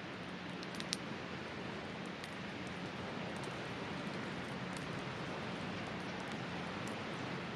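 Wood campfire crackling with scattered small pops, one sharper pop about a second in, over the steady rush of a river.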